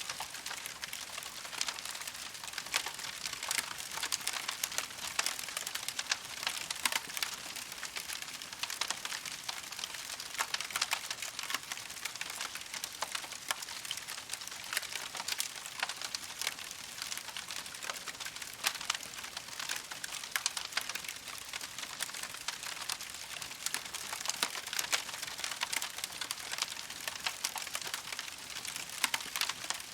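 Wood fire crackling steadily: a constant hiss of burning with many small sharp pops and snaps.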